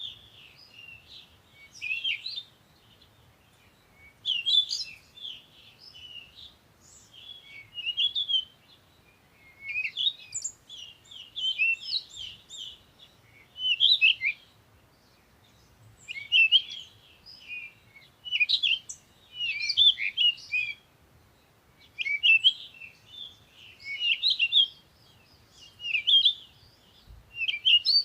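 Songbirds singing at dawn: short phrases of quick, high chirps and trills, one after another every second or two.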